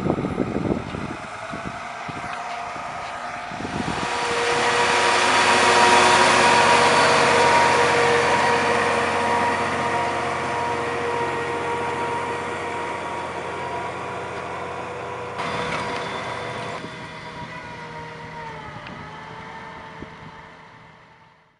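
John Deere 7280R tractor engine running steadily under load while pulling a large plough. It grows louder about four seconds in, as if drawing close, then slowly recedes and fades out near the end.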